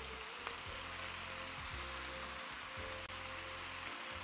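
Whole trout and vegetables frying in a pan: a steady sizzling hiss.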